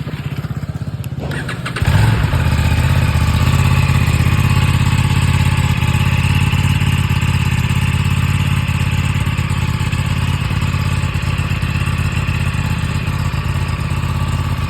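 Aprilia Tuono 457's parallel-twin engine on a cold start: the starter turns it over for about two seconds, then it catches and settles into a loud, steady idle through its exhaust.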